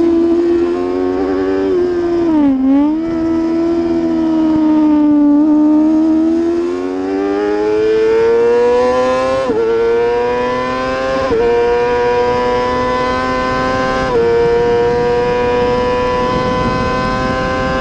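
Racing superbike's engine under racing load: the pitch dips briefly, then climbs steadily for several seconds, broken by a few short sudden steps like gear changes, before holding level at high revs.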